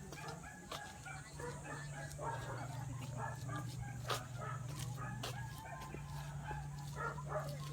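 Chickens clucking, many short overlapping calls, over a steady low hum.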